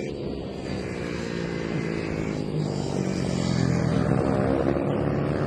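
Several 110cc Mini GP motorcycle engines buzzing at high revs, their pitches shifting as the riders work the throttle. The sound swells to its loudest about four seconds in and then eases off.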